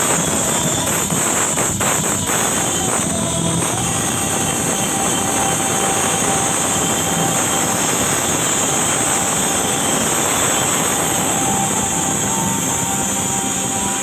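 Loud music played through a large sound system, heard as a steady, dense wash of sound.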